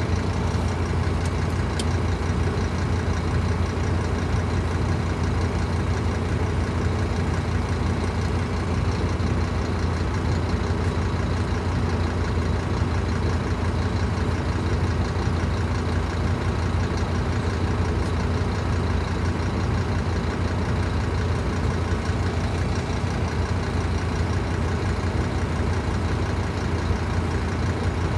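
Scania K310IB bus's diesel engine idling steadily, a low, even hum that holds the same pitch throughout.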